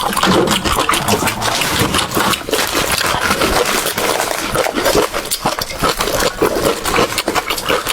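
Close-miked eating sounds: wet chewing and slurping of a saucy, oily stew, with dense irregular smacks and clicks.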